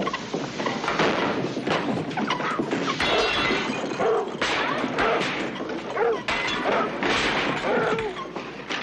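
A brawl: repeated crashes of breaking glass and wood and thuds of blows, with men's shouts and grunts.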